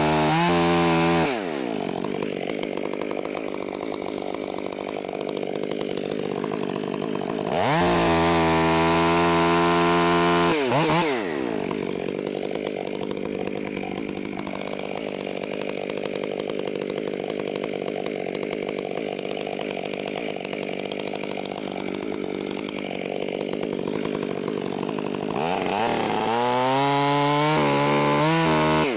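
Chainsaw running throughout, revving up to full throttle and dropping back three times: once just after the start, for about three seconds around 8 s in, and again near the end, running at a lower, steadier level in between.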